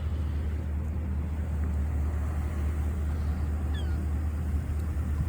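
Steady low rumble with a couple of faint, short falling calls from the seagulls about four seconds in.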